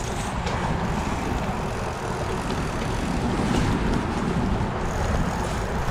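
Steady wind rush on the microphone, heaviest in the low end, while riding a bicycle.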